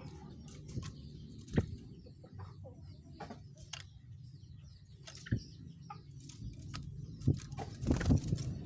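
A caged rengganis bird making short sharp clicks, scattered irregularly, with the loudest cluster near the end, over a faint steady high whine.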